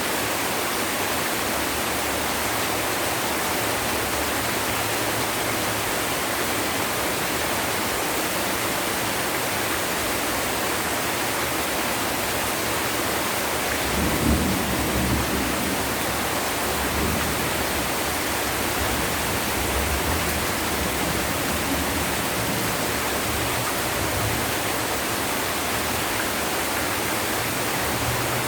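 Heavy rain pouring down in a steady, dense hiss. About halfway through, a low rumble of thunder rolls in and fades over several seconds.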